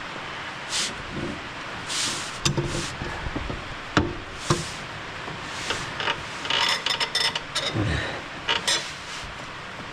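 Scattered metallic knocks, clanks and rattles of hand tools working on a stuck part of a riding lawn mower, busiest in the second half, over a steady background hiss.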